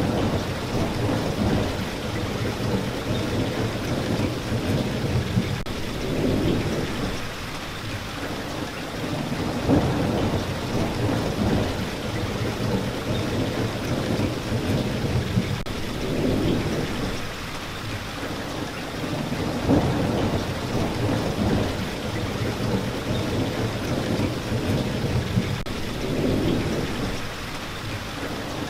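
Steady heavy rain, with a low rumble that swells and fades every few seconds.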